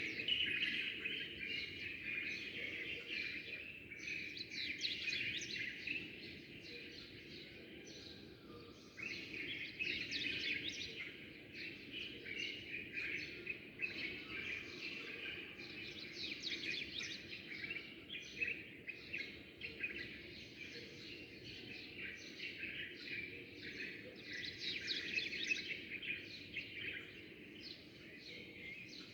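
Many small birds chirping and twittering at once, a dense overlapping chorus that thins briefly about eight seconds in, over a steady low background hum.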